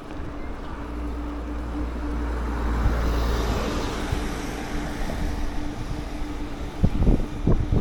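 Scooter riding on a road: a steady engine hum under road noise that swells and fades about three seconds in, then low buffeting from wind on the microphone near the end.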